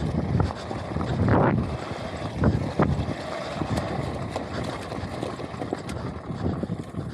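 Wind rushing over the microphone and rough rattling while riding an electric off-road motorbike over uneven ground, with a few sharp knocks in the first three seconds.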